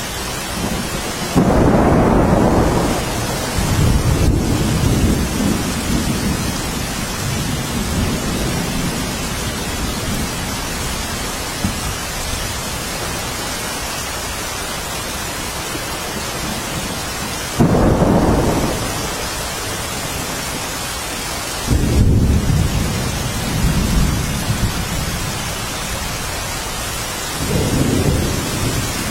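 Steady rain hissing, with deep rolls of thunder breaking in suddenly four times, each rumbling on for a few seconds.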